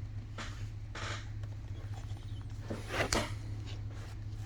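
Trading cards being handled and flipped through: a few brief swishes of card sliding on card, the strongest about three seconds in, over a steady low hum.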